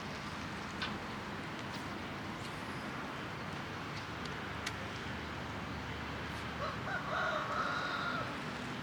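Steady outdoor background noise, with a rooster crowing once, about a second and a half long, about two-thirds of the way in.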